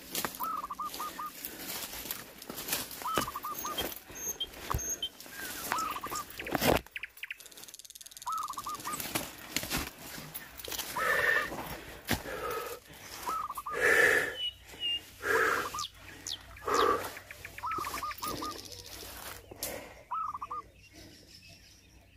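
A bird calling in short, quick runs of a few notes, repeated every second or two, over scattered clicks and rustling. Several louder, noisier bursts come in the middle.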